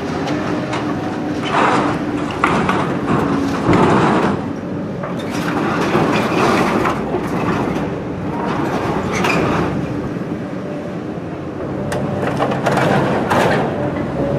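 Heavy demolition machinery at work: an engine running steadily under irregular crunching and scraping as building debris is broken and moved.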